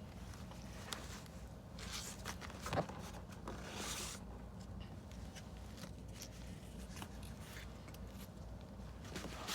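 Quiet handling of cardboard and tape: scattered light taps and rustles, with a short rasp about four seconds in, over a low steady hum.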